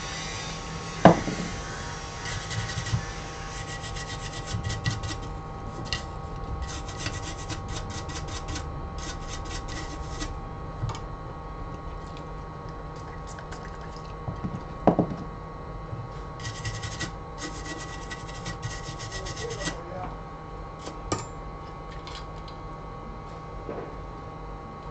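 Runs of rapid back-and-forth scratching strokes, each run lasting several seconds, with a sharp knock twice.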